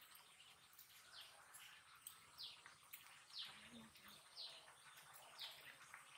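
Faint bird calls, a short falling chirp repeated about once a second, over quiet open-air background.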